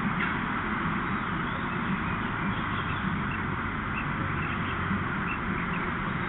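Steady outdoor background noise from a nest camera's microphone, with scattered short, high bird chirps.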